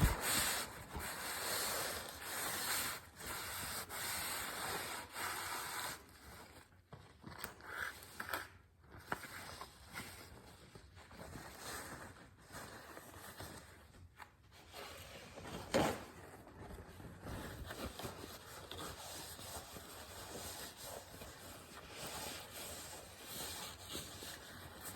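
Irregular rubbing and scraping noise from hands working on the motorcycle, heaviest in the first few seconds, with one sharp knock around the middle.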